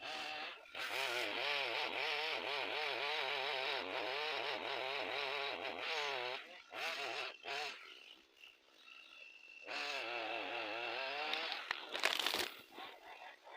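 Chainsaw running under cutting load, its pitch wavering up and down, for about six seconds, with short bursts after that. It runs again briefly later, and a sharp, loud noise comes about twelve seconds in.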